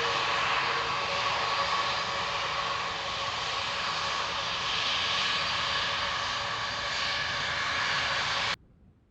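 Jet engines of an Airbus A330-200 airliner running steadily as it departs, a broad rush with a faint steady whine, cut off abruptly near the end.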